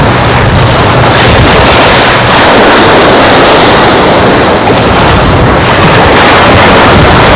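Wind buffeting the microphone in a loud, steady rumble over the wash of surf on a beach.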